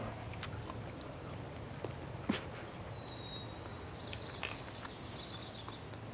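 Faint chewing of a soft vegan breakfast sausage link, with a few small mouth clicks. Faint bird chirps in the background.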